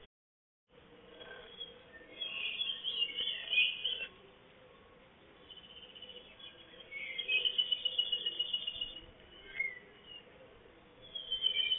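Wild birds singing, high chirping phrases coming in spells with quieter gaps between them.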